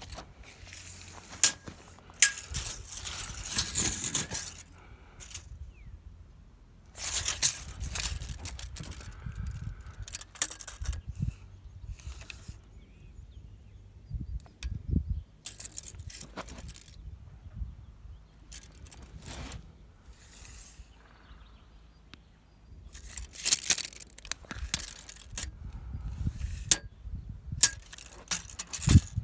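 Intermittent hand work on wood: bursts of scraping or rasping lasting a second or two, broken by sharp clicks and knocks, over a low rumble.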